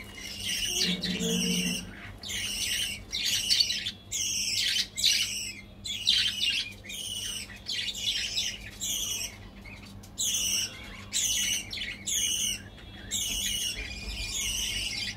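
A small bird chirping, short high wavering calls repeated about every half second to second.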